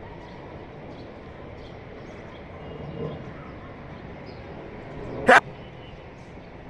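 A dog barks once, short and loud, about five seconds in, over steady background noise.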